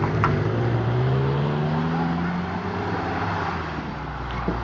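A motor vehicle's engine accelerating. Its pitch rises over the first two seconds or so, then holds about level.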